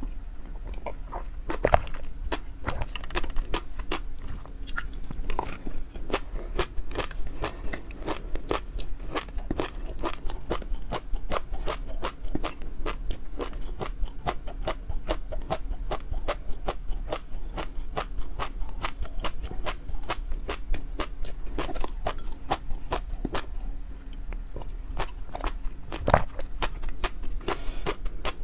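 Close-miked eating sounds of a person chewing food: a dense, continuous run of small clicks and crunches, with a few louder bites.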